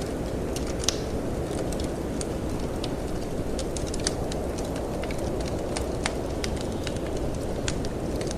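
Wood fire crackling in a fireplace, with irregular sharp pops and snaps, over a steady low rush of wind.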